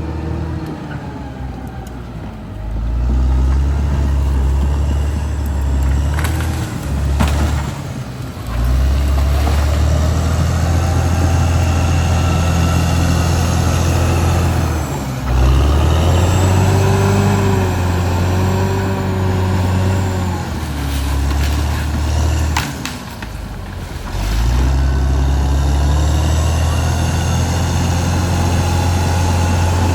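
Caterpillar D6R XL bulldozer's diesel engine working under load, its sound dropping away and building back up several times. There are a few short sharp cracks.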